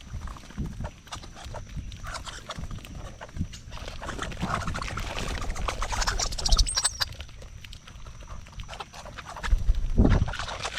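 Birds busy at a feeder close to the microphone: scattered taps, scratches and knocks from pecking and feet on the feeder, with a louder knock and flutter near the end.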